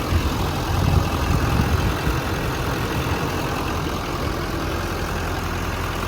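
Duramax turbo-diesel V8 of a Chevrolet Silverado 3500 idling steadily.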